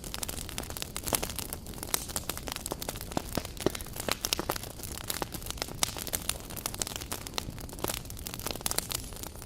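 Campfire crackling: irregular sharp pops and snaps, several a second, over a steady hiss.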